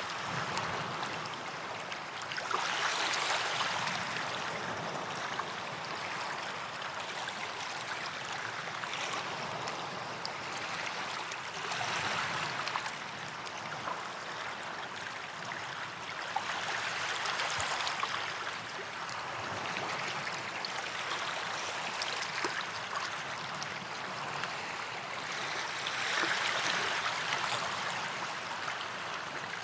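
Small waves washing onto a sandy beach, gently swelling and receding every few seconds, with faint fizzing and crackling from the wash.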